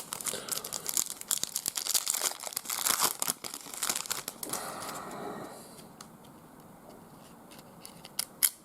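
A trading card pack wrapper being crinkled and torn open, a busy run of crackling for about the first half, then a brief rustle and only a few faint clicks.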